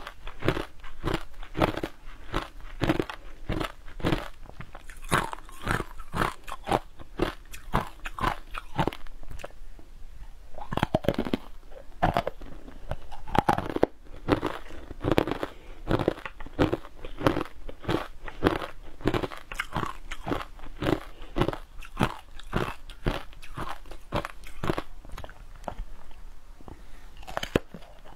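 Close-miked biting and chewing of crunchy frozen food coated in green powder: a continuous run of crisp crunches, several a second.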